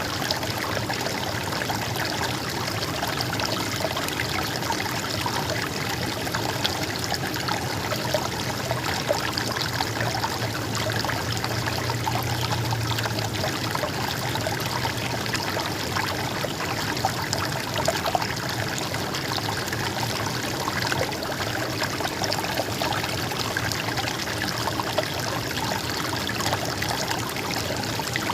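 Shallow stream babbling and trickling over stones, a steady, continuous rush of water.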